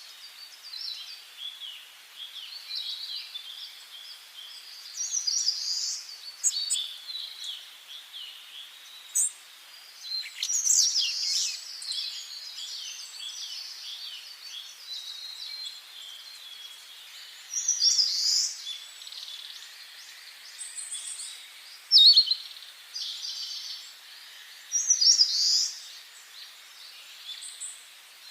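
Several songbirds singing in a forest, short phrases of quick high notes and whistled glides coming every few seconds, over a faint steady hiss.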